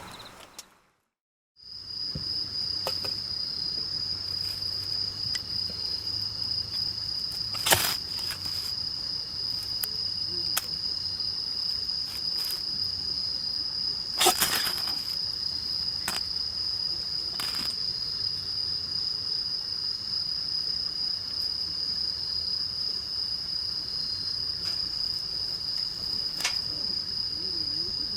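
Steak sizzling in a hot pan over a campfire, with a few sharp pops through it. A steady high-pitched tone runs along with it.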